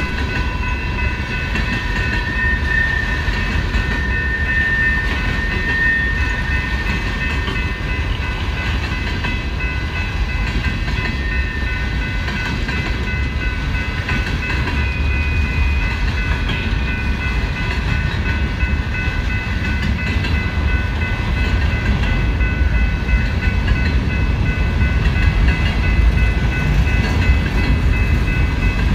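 Freight cars of a long BNSF manifest train rolling past over a grade crossing: a steady low rumble of wheels on rail, with a few steady high-pitched tones held above it and the rumble growing slightly louder near the end.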